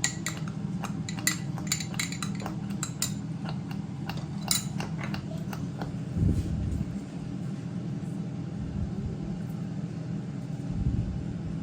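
Metal cutlery and dishes clinking: a quick run of light clinks in the first half, then two duller knocks, one about six seconds in and one near the end, over a steady low hum.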